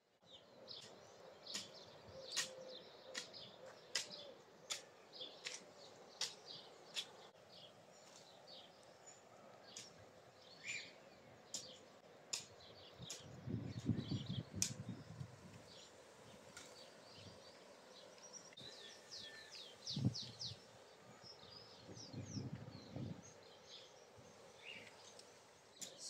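Faint outdoor birdsong: small birds chirping in short, high, repeated notes throughout, over a steady low background, with a few low rumbles around the middle and near the end.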